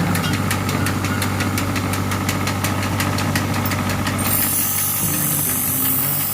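Blacksmith's mechanical power hammer running, with a steady motor hum under rapid, even blows. The blows stop about four seconds in and a high hiss comes in.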